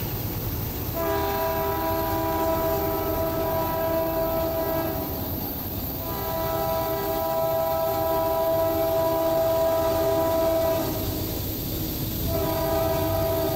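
CSX freight locomotive's air horn sounding a chord of several notes in two long blasts, then a third starting near the end, over the low rumble of the train: the pattern of a grade-crossing warning.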